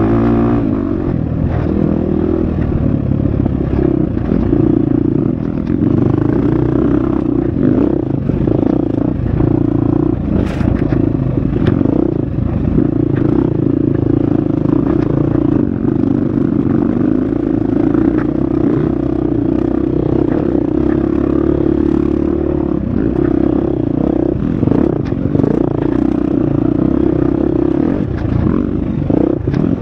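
Husqvarna FX 350 four-stroke single-cylinder dirt bike engine running hard on a trail, the engine note rising and dipping slightly with the throttle. Scattered clattering and scraping rise from the bike working over rough ground.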